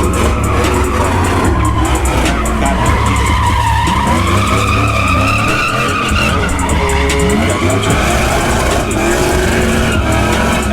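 Pickup truck doing a burnout, its engine held at high revs while the rear tyres spin and squeal, the screech wavering up and down in pitch.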